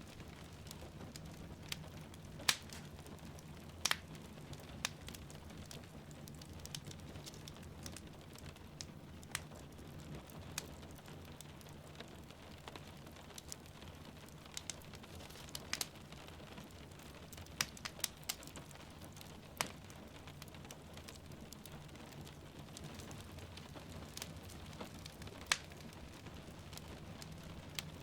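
Wood fire crackling in a fireplace, with sharp irregular pops and snaps every second or so over a steady low rumble, and a soft hiss of rain.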